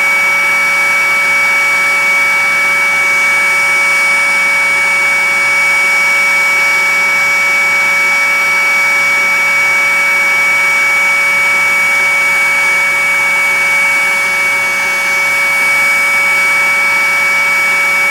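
Hot-air rework blower running steadily: a loud rushing of air with a constant high whine, heating the board during BGA socket desoldering.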